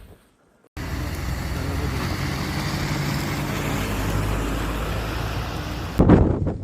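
A motor vehicle's engine running steadily under a broad rushing noise. It starts abruptly about a second in and cuts off near the end, where loud irregular buffeting begins.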